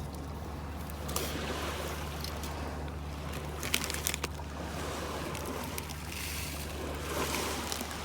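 Small waves washing in on a sandy shore, swelling and falling back every few seconds, over a steady low hum. A few sharp clicks come about four seconds in.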